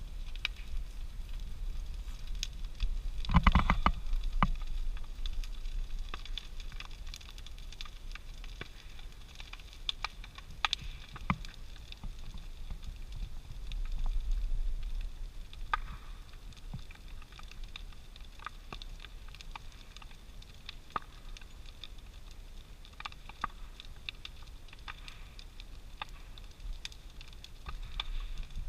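Big brush-pile bonfire burning: wood crackling and popping in scattered sharp snaps over a low steady rumble, with a louder cluster of crackles about three seconds in.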